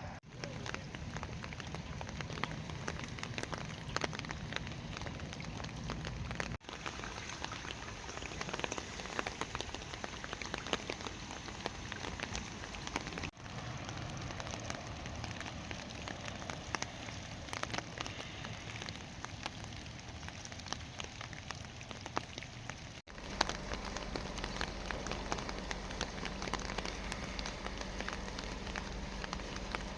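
Moderate rain falling steadily, a dense patter of drops hitting surfaces. The sound dips for an instant about a third of the way in, near the middle and about three quarters of the way through, where the recording is cut.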